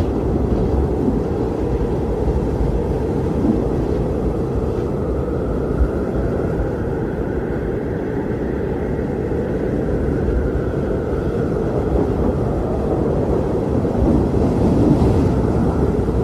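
Blizzard wind blowing hard: a steady low rush, with a higher howl that swells and fades about halfway through.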